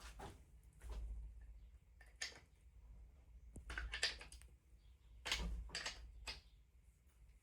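Hand tools clicking, tapping and scraping on metal engine parts in irregular bursts as screws are loosened, with a faint low hum underneath.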